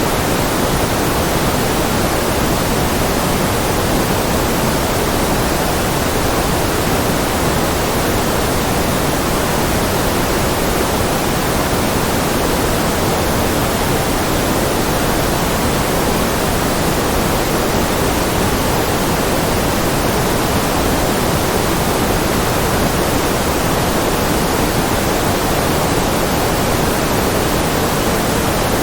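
Steady, unchanging synthetic noise played as a white-noise track for concentration, a constant hiss with no events in it. It carries more weight in the low and middle range than in the treble.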